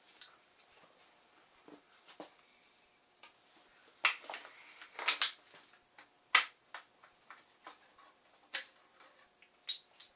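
Barnett Predator AVI crossbow being cocked by hand: a series of irregular sharp clicks and clacks of metal and plastic parts. The loudest come in a cluster from about four to six and a half seconds in.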